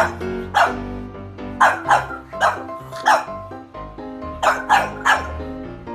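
French bulldog puppy barking in short, high yaps, about nine in quick bunches, over background music.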